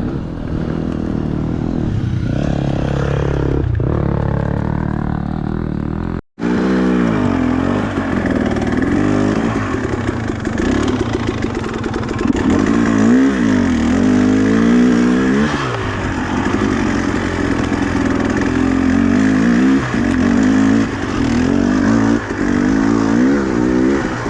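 Two-stroke dirt bike engine being ridden, the throttle opening and closing so that the pitch rises and falls again and again. The sound cuts out for an instant about six seconds in.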